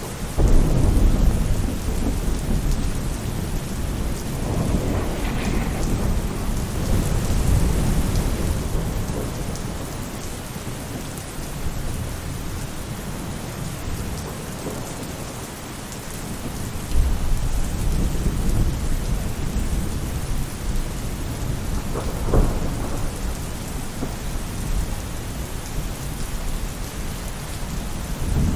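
Steady rain falling on a roof during a thunderstorm, with rolling thunder: a long rumble through the first several seconds, another starting a little past halfway, and a sharper crack soon after.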